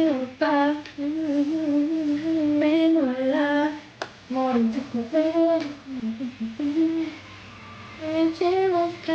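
A young woman humming a tune with her mouth closed, holding notes that step up and down in a melody with short breaks. A single sharp click about four seconds in.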